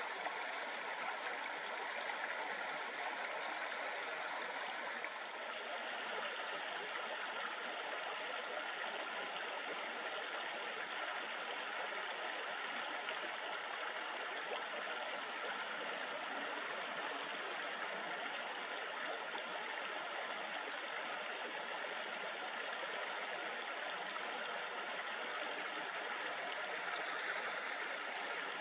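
Shallow river babbling steadily over stones. Three short, high bird chirps sound about two-thirds of the way through.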